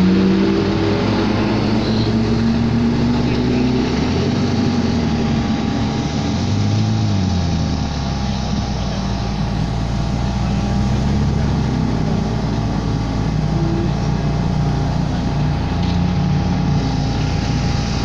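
Ferrari sports car engine running as the car laps, its pitch rising and falling with the revs.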